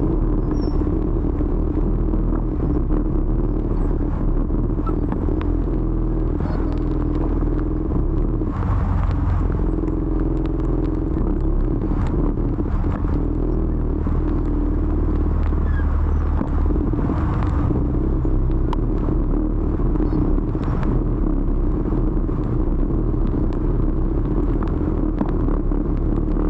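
Steady rumble of a motor scooter riding through city traffic, with its engine and the surrounding road noise.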